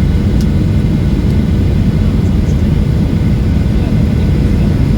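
Steady low rumble of a Boeing 737-800's cabin: its CFM56-7B engines and airflow, with a faint click about half a second in.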